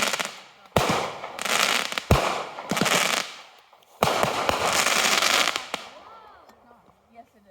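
Consumer aerial firework shells bursting overhead: three sharp bangs within about four seconds, each followed by a loud crackling hiss that lasts a second or two. The last one fades away about two seconds before the end.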